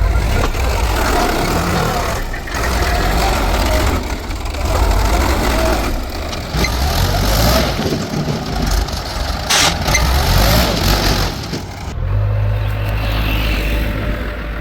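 Heavy diesel machinery working, engine running loud with a noisy mechanical clatter. About twelve seconds in, the sound changes to a steadier, lower engine drone.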